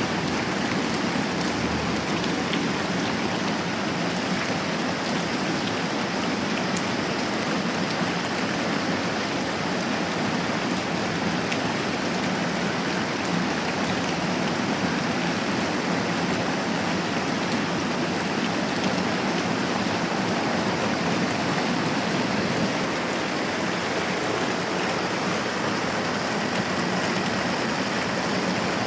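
Moderate rain falling steadily.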